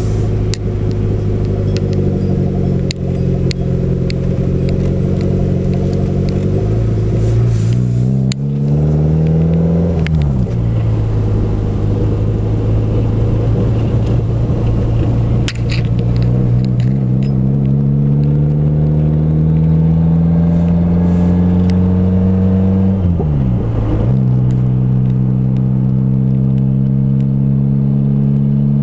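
A car's engine heard from inside the cabin while driving. Its pitch climbs steadily as it accelerates, then drops sharply about ten seconds in as it shifts up. It climbs again and dips sharply once more near the end.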